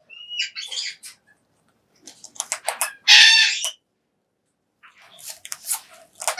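Major Mitchell's cockatoo giving one harsh screech about three seconds in, with short clicks and crunches before and after it and a few brief chirps near the start.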